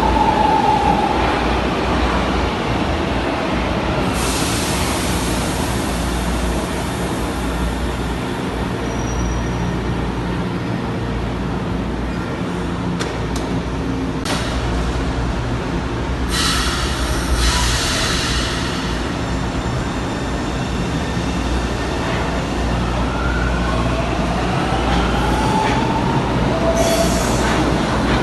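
Electric metro train running on its track with a steady rumble. Its motor whine glides upward in pitch near the start and again near the end, and bursts of high hiss come through several times.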